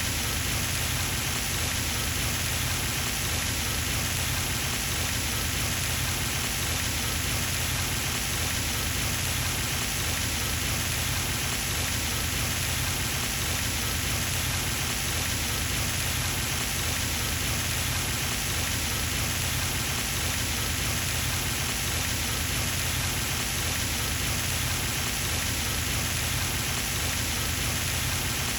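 Pond fountain's spray splashing steadily onto the water surface, a constant patter like heavy rain.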